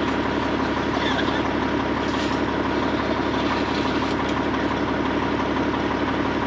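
Heavy-duty diesel truck engine idling steadily.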